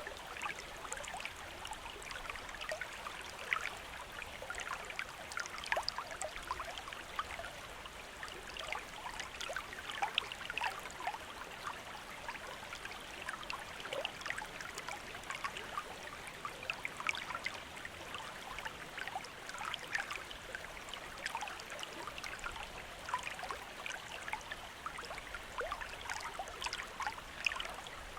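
Shallow stream running steadily, with constant bubbling and trickling splashes over stones.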